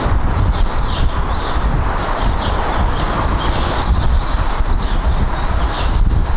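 Small birds chirping over and over in quick short calls, over a steady rush with low buffeting typical of wind on the microphone.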